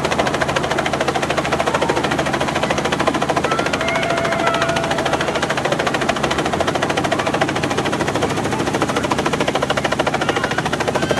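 Helicopter flying low overhead: a steady, loud rotor chop with a fast, even beat over the engine.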